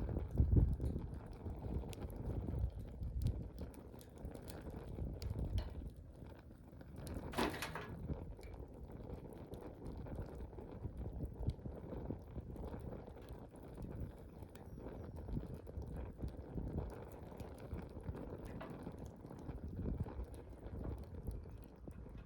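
Wood bonfire burning: a low, uneven rumble of flames with scattered crackles and pops, and a brief hiss about seven seconds in.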